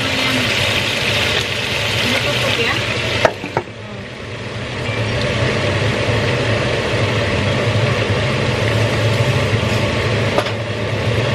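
Broccoli sizzling as it fries in a wok on high heat. A little over three seconds in, a glass lid clacks down onto the wok and the sizzle drops, then builds back up under the lid over a steady low hum.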